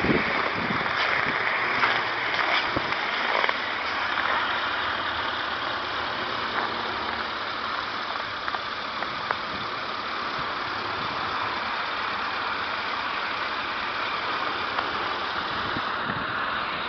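Strong wind rushing steadily, with gusts buffeting the microphone in low thumps during the first few seconds.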